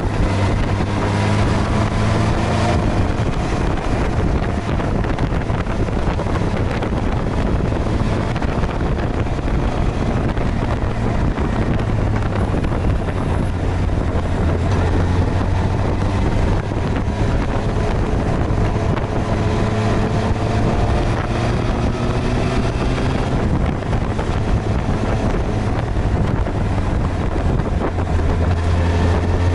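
Suzuki GSX-R1000R's inline-four engine running while the bike is ridden, its pitch rising and falling with the throttle, over heavy wind noise on the microphone.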